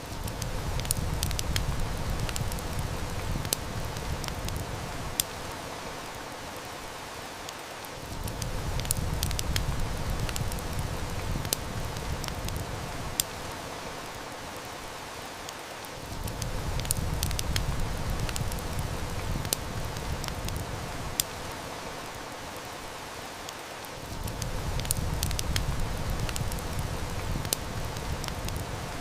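Steady rain hiss with sharp wood-fire snaps and crackles over it. A low rumble swells for several seconds and fades again. The same stretch, with the snaps in the same places, repeats about every eight seconds: a short looped ambience track.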